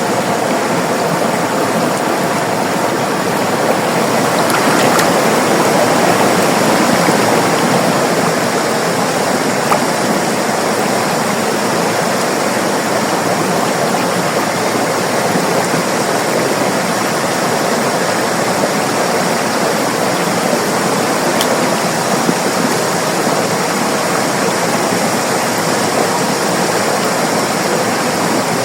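River water rushing and splashing over rocks in a steady, dense flow, swelling slightly a few seconds in.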